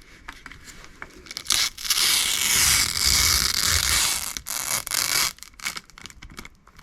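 Plastic being handled and torn: short crinkles, then one long tearing rip lasting about three seconds, followed by a few scrapes and crinkles.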